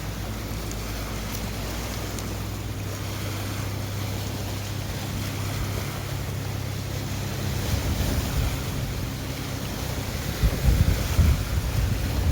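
Seaside ambience: surf washing in under a steady low hum, with wind on the microphone. From about eight seconds in, gusts buffet the microphone, strongest near the end.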